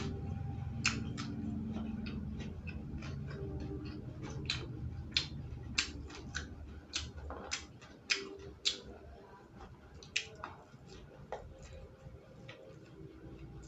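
A person chewing crunchy raw vegetables close to the microphone: irregular crisp crunches and wet mouth clicks, sometimes several in a second. A low rumble sits underneath in the first half and fades away.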